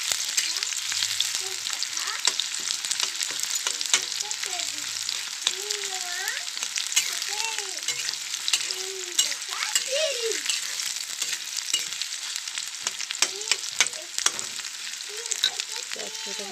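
Chopped onions sizzling in hot mustard oil in a steel kadai, with a steady hiss and the steel spatula clicking and scraping against the pan as they are stirred.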